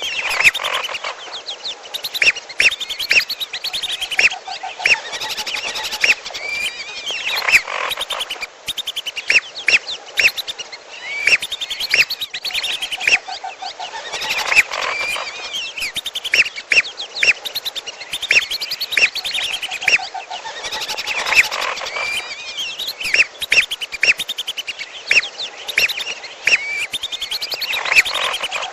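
Bird-lure recording of red whistling duck (belibis merah) and piolo calls mixed together: rapid high chirps and whistles over a lower quick trill, the sequence repeating about every seven seconds as a loop.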